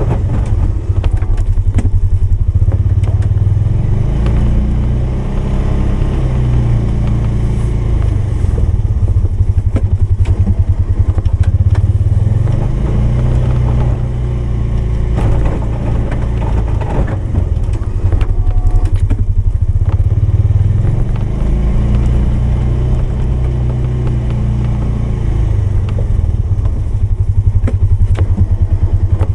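Polaris 570's single-cylinder engine running under load while pushing a snowplow, its level swelling and easing off several times, with some clatter.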